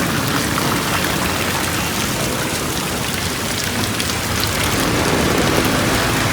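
Heavy rain falling steadily, an even hiss of rain with scattered drops ticking close by; the rain grows a little louder about five seconds in.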